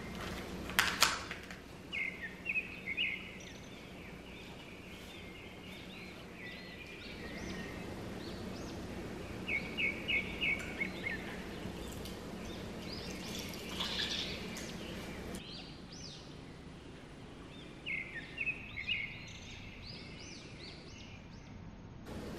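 A songbird chirping in three short runs of quick, high notes over a faint steady hum, with a couple of sharp clicks about a second in.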